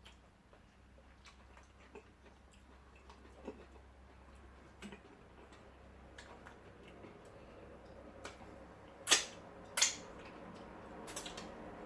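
Scattered clicks and wet smacks of people eating fufu and ogbono soup by hand, faint at first, with a few sharper, louder clicks about nine and ten seconds in.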